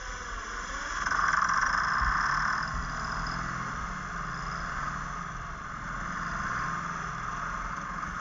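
Diesel truck engine running steadily, a little louder for a couple of seconds about a second in.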